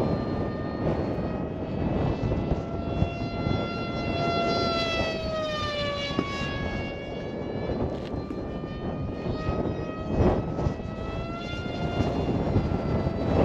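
Small electric RC plane (ZOHD Alpha) with its brushless motor and propeller whining in the air. The pitch sags about five seconds in and climbs back later. Heavy wind rumble on the microphone runs underneath, with a few brief buffets from strong gusts.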